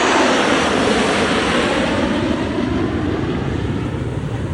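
Jet noise from a formation of Blue Angels F/A-18 Super Hornets passing low overhead, a loud steady rush that slowly fades as the twin-turbofan jets move away.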